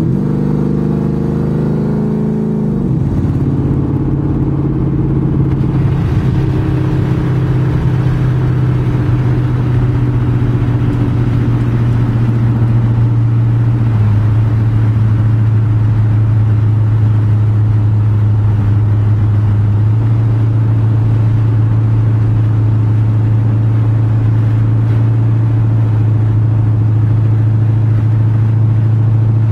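2007 Ford Mustang GT's 4.6-litre V8 through an aftermarket 3-inch exhaust with turndowns, rising in pitch under acceleration for the first few seconds, dropping at a gear change, then settling into a steady deep drone while cruising.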